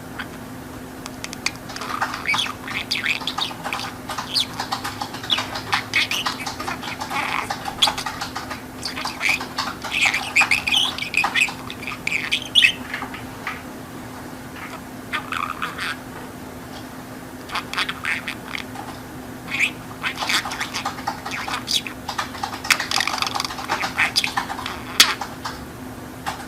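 Pet budgerigar chattering in quick, scratchy bursts, with a short break about halfway through, over a faint steady low hum.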